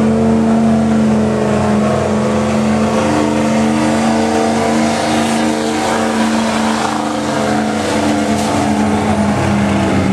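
Diesel pickup truck engine running loud at steady revs, its pitch shifting slightly about three seconds in, as at a truck pull.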